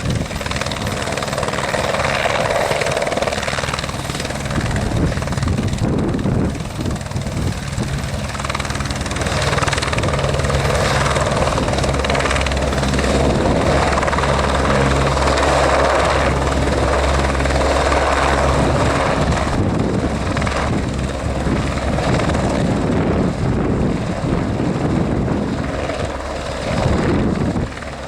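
Helicopter running close by, its rotor and engine a loud steady sound with a low tonal beat, growing louder through the middle stretch.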